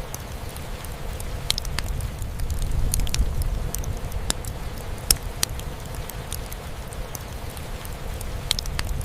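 Fireplace crackling, with irregular sharp pops scattered through, over a steady low rumble of rain drumming on a roof.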